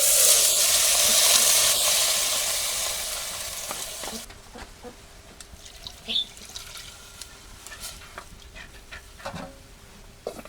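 A steady hissing rush of something being poured, starting abruptly and cutting off sharply about four seconds in, followed by a few light knocks and clinks and a single short bird chirp.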